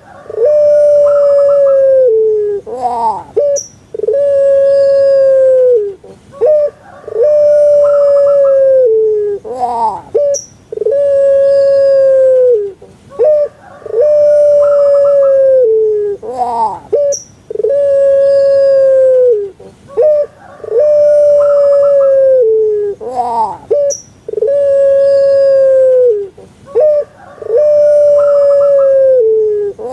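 Puter pelung dove (Streptopelia risoria) cooing over and over: a long, held, round note that drops away at its end, followed by a short note that rises and falls. The phrase repeats about every three seconds.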